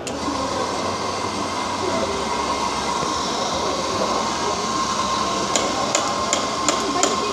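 Espresso machine steam wand steaming milk: a steady hiss with a thin whistle through it, starting abruptly. Near the end come a series of sharp taps.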